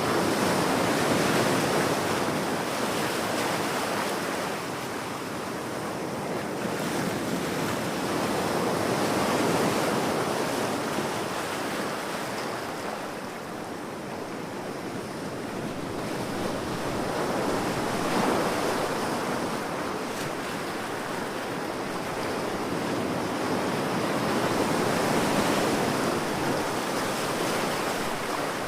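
Ocean waves breaking on a beach, a continuous wash of surf that swells and eases as each wave comes in, about four swells over the stretch.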